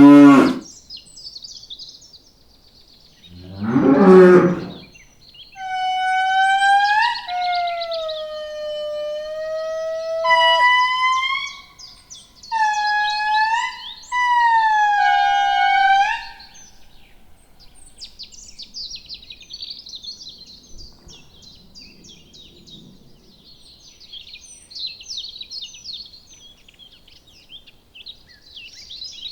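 Animal calls: a low moo-like call about 4 seconds in, then a run of high, sliding cries about a second each, then many quick high bird chirps.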